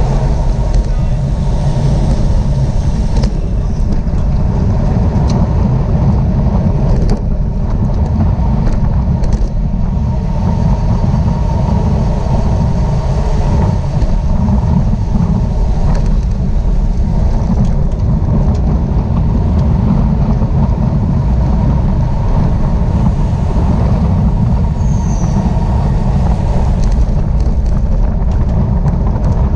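Steady wind buffeting on the microphone of a camera moving at racing speed on a bicycle, with tyre and road noise underneath.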